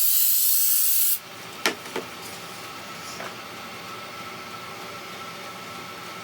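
A short spray hiss lasting about a second and a half, then two sharp clicks a moment apart, over a steady background hum.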